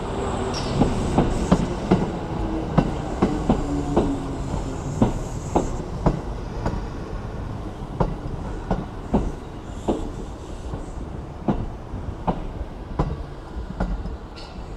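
Three-car Kintetsu electric commuter train pulling into the station, its wheels clacking over the rail joints. The clacks are quick at first and spread out as the train slows, with a faint hum early on under the rumble.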